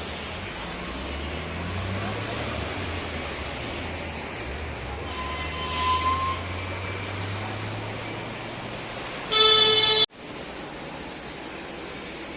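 Road traffic with engines rumbling steadily. About nine seconds in, a vehicle horn sounds one loud blast of under a second that cuts off suddenly.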